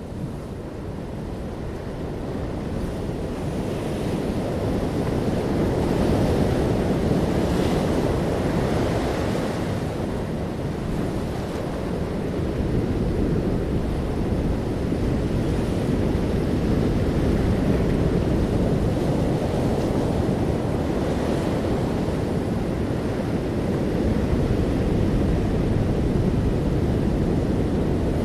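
Sea waves washing onto a shore with wind blowing across the microphone: a steady low rush that fades in over the first few seconds, swelling brighter as waves break, twice.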